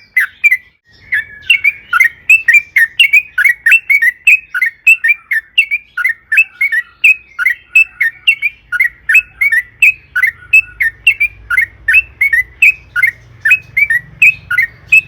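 Yellow-vented bulbul (trucukan) singing a long, fast run of short chattering notes, about four a second, with a brief break about half a second in.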